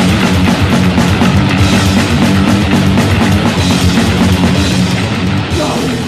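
Death/thrash metal band playing live: fast, dense drumming with heavy distorted guitar and bass. The cymbals drop out briefly about five and a half seconds in.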